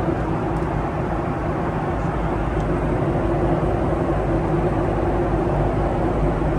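Steady cabin noise inside a Boeing 737-800: a constant rush of air and CFM56 engine noise with a steady low hum, unchanging throughout.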